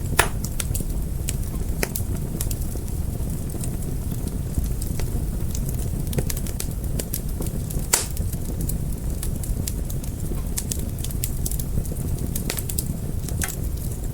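Wood fire burning with a steady low rumble of flames and irregular sharp crackles and pops. The loudest pops come just after the start and about eight seconds in.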